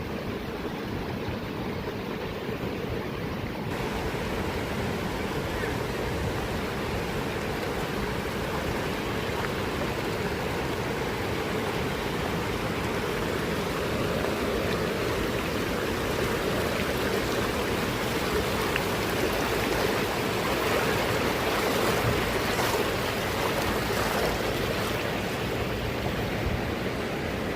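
Rushing water of a mountain stream: a steady, even rush that grows somewhat louder from a few seconds in.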